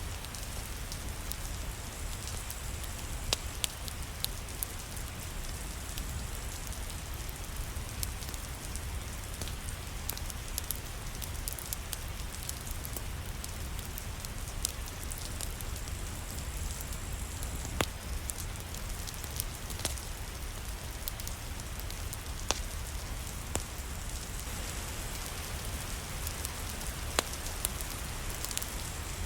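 Steady, even rain with a low rumble underneath, and scattered sharp crackles from a wood fire in a fireplace.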